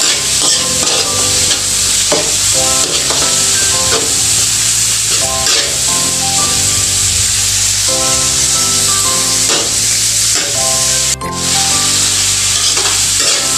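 Ground pork sizzling in hot oil in a large metal wok while a spatula stirs it, scraping and tapping against the pan.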